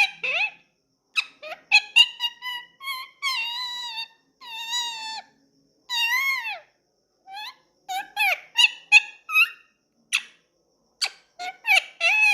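Indian ringneck parakeet chattering: a rapid string of short whistled chirps and squawks, some gliding up and down in pitch like mumbled talk, a few held for about a second.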